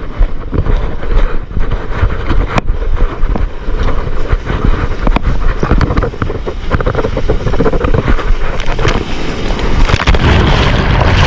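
Wind buffeting a GoPro HERO 8's microphone, mixed with the rush and splash of sea water and surf. It is a loud, unbroken noise that grows louder about ten seconds in.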